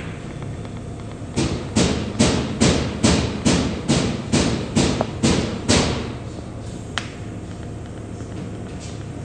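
A quick, even run of about eleven knocks, a little over two a second, each fading fast, followed a second later by a single click.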